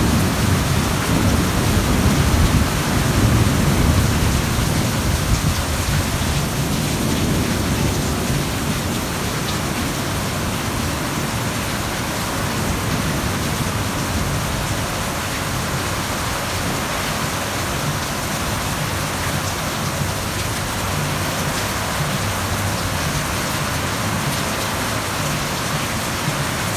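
Heavy rain pouring down in a thunderstorm, a dense steady rush. A low rumble of thunder in the first several seconds dies away.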